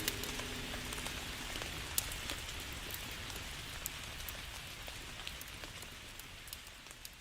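Rain falling: a steady hiss with scattered drops ticking, slowly fading out.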